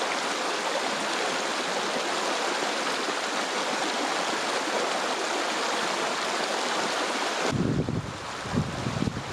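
Steady rush of a flowing stream. About seven and a half seconds in it changes abruptly to a low, uneven rumble.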